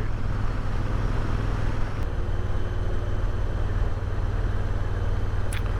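Motorcycle running steadily at road speed, with a low engine rumble under a steady rush of wind noise.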